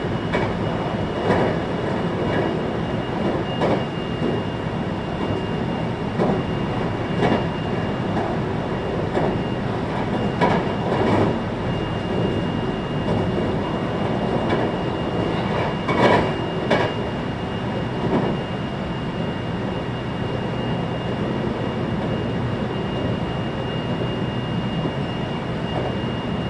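Running noise heard from inside the passenger car of a 521-series electric train: a steady rumble of wheels on rail, with scattered sharp clicks as the wheels cross rail joints, the loudest pair about sixteen seconds in. A thin, steady high tone sits over the rumble.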